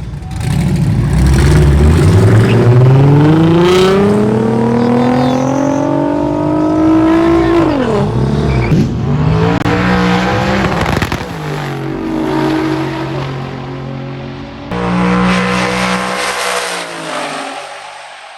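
Car engine accelerating hard at full throttle, its pitch climbing steadily for about seven seconds. The pitch then drops sharply and the engine runs on at lower, steadier revs, surges again briefly and fades out.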